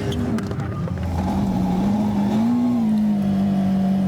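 Rally car engine running on a snowy stage, its note holding fairly steady, rising briefly about two and a half seconds in and easing back down.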